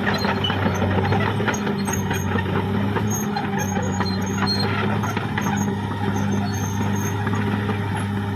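Caterpillar D6R XL bulldozer's diesel engine running steadily under work, with many short clanks and knocks from the machine working.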